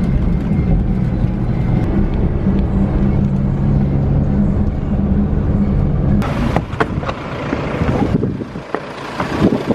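A van's engine and road noise heard from inside the cabin while driving, a steady low hum. About six seconds in it gives way to quieter sound with a few sharp clicks and knocks.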